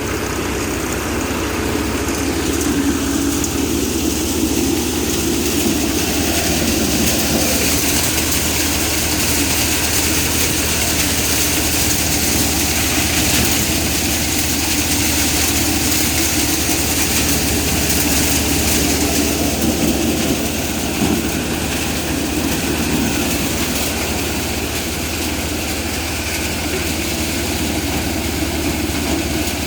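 Massey Ferguson tractor's diesel engine running steadily, driving a thresher, with a continuous rushing clatter of the threshing machine over the engine's low drone.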